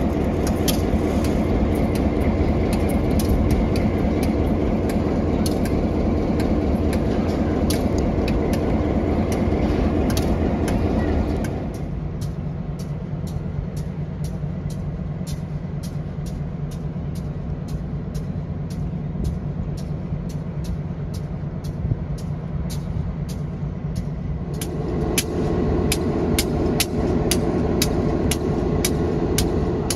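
Excursion train running: a loud steady engine drone for about the first eleven seconds, then quieter running with regular clicking, like wheels passing over rail joints, and a fresh hum rising near the end.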